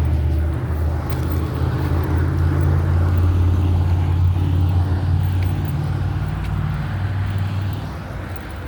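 Motor vehicle engine running close by with road noise: a steady low drone that eases off near the end.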